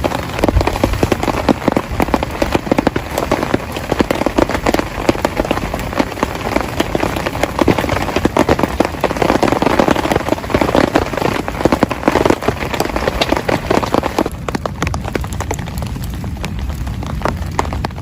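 Heavy rain falling on a surface, a dense patter of many separate drops over a steady hiss. It eases a little after about fourteen seconds.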